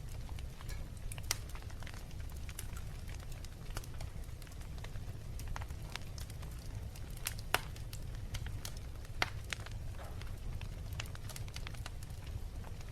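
Wood fire crackling in a fireplace: scattered small pops over a steady low rumble, with sharper pops about seven and a half seconds in and again near nine seconds.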